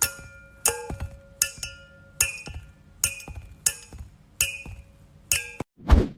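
A series of about eight clinking strikes, evenly spaced a little under a second apart, each ringing on briefly like tapped glass. Two heavy low thumps follow at the very end.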